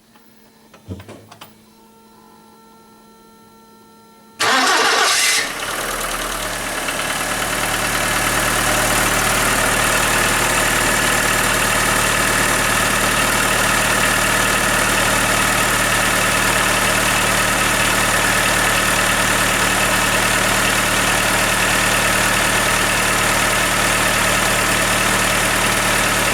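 Skoda Fabia 1.4 16V (BKY) four-cylinder petrol engine being cold-started after standing overnight. A couple of clicks and a faint steady hum come first. About four seconds in, a short crank, then the engine catches and settles into a steady idle. The owner complains of a knock on cold starts, which the mechanic puts down to enlarged piston-to-cylinder clearance (piston slap); at this idle it is barely audible.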